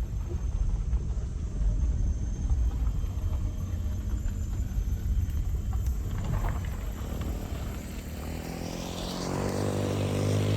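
Motor vehicle running: a low, uneven rumble, with a steady engine hum that grows louder over the last couple of seconds.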